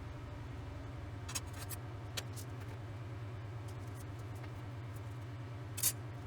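A steady low engine hum with a fast even pulse, and a few light clicks over it.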